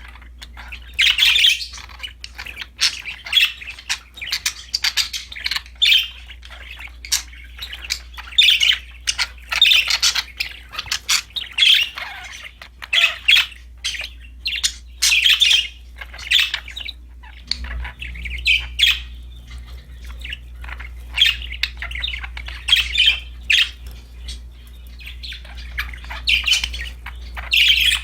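Budgerigars chirping and squawking in repeated bursts of quick, high chirps.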